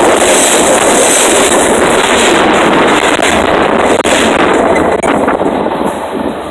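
A train rolling directly over a phone lying between the rails: a loud, steady rush of wheel and undercarriage noise right over the microphone, fading from about four and a half seconds in.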